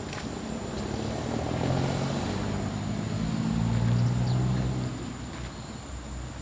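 Heavy diesel vehicle engine running, growing louder to a peak about four seconds in and then fading, like a truck or bus driving past.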